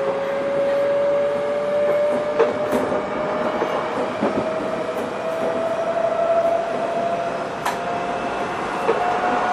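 Odakyu 1000 series electric train's Mitsubishi GTO VVVF inverter and traction motors running: a steady whine that rises slowly in pitch as the train gathers speed, over wheel and rail noise with a few sharp clicks.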